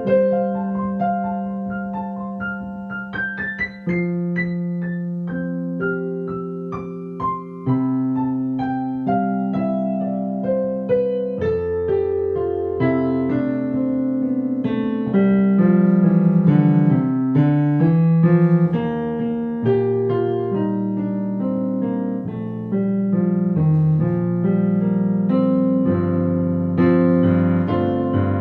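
Solo piano playing a song accompaniment with no voice: held chords, a quick rising run about two to four seconds in, then a slower falling line and fuller chords.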